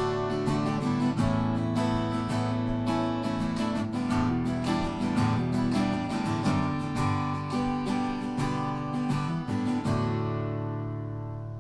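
Acoustic guitar strummed in a country song's closing instrumental, the last chord ringing out and fading from about ten seconds in.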